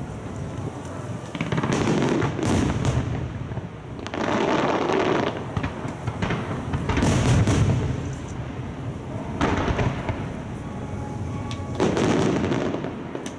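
Aerial fireworks shells bursting in a display: about six loud booms a second or two apart, each followed by a rolling, echoing rumble.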